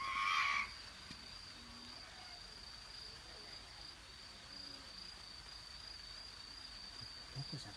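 One short, loud cry from an unidentified animal of the night, lasting under a second right at the beginning, over a continuous high, steady insect trill.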